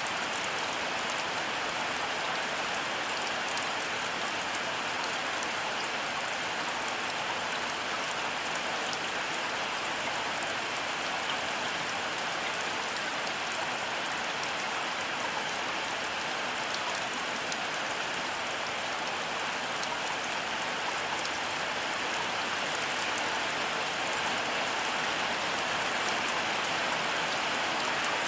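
Heavy rain falling steadily, a dense even hiss with fine ticks of individual drops striking.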